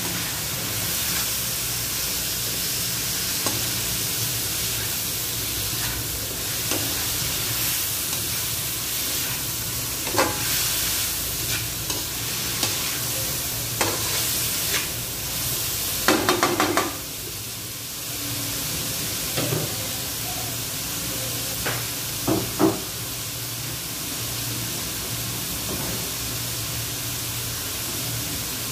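Cabbage and meat frying in an aluminium wok with a steady sizzle, a metal spatula scraping and knocking against the pan as the food is stirred. A quick rattle of sharp knocks about sixteen seconds in is the loudest moment, with a couple more knocks later.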